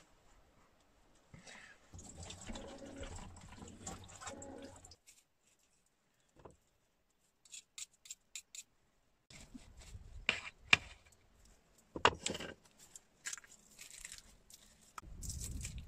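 Salad preparation by hand: a few seconds of rustling handling, a near-silent pause with a few light ticks, then scattered sharp clicks and knocks of utensils and vegetables, the loudest about ten seconds in.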